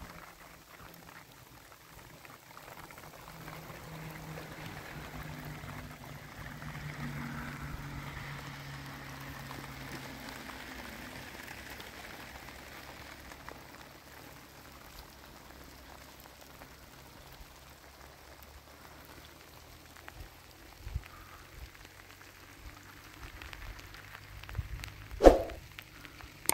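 Rain falling: a steady light patter of drops, with a faint low drone in the first half and one sharp knock near the end.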